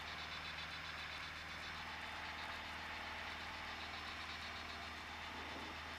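Piper PA-28's single piston engine and propeller droning steadily in flight, heard from inside the cockpit.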